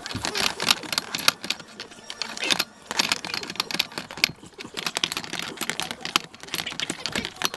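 Rapid, irregular clicking and smacking sounds, several a second.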